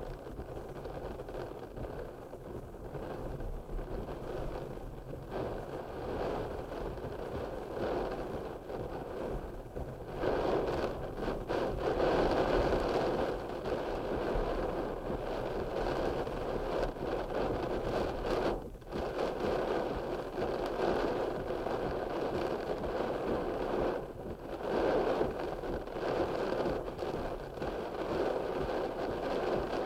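Rain falling steadily, a dense hiss that grows heavier about ten seconds in.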